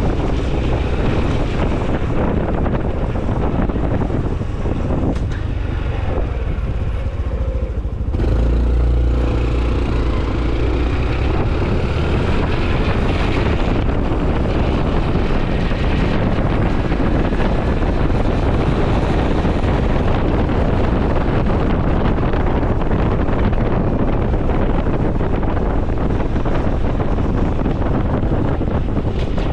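Honda CT125 Hunter Cub's air-cooled single-cylinder engine running while riding, with wind buffeting the microphone. About eight seconds in, the engine note grows stronger and rises in pitch as the bike accelerates.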